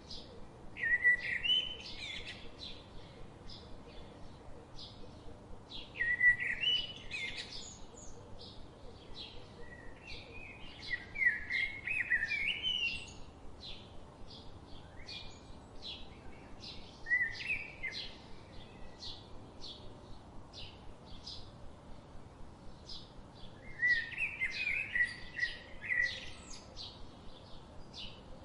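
Songbirds singing: one bird sings a warbling phrase of a second or two every few seconds, while another repeats a short high chirp about twice a second.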